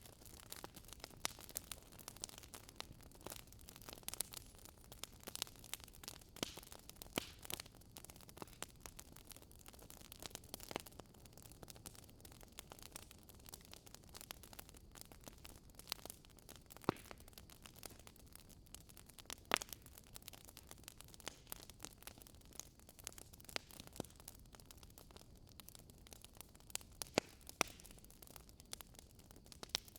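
Wood fire burning in a fireplace: a soft steady hiss with irregular crackles several times a second and a few sharper pops.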